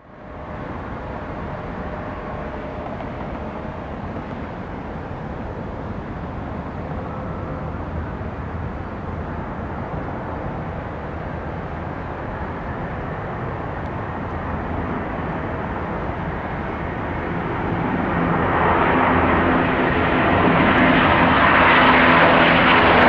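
Boeing 757-300 jet engines running with a steady rumble that grows steadily louder over the last five seconds as the airliner's engine noise builds.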